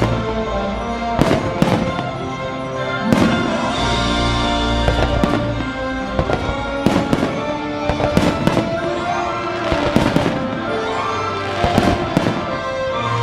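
Fireworks bursting repeatedly over an orchestral show soundtrack, a dozen or so sharp bangs, some in quick clusters, with the music held underneath.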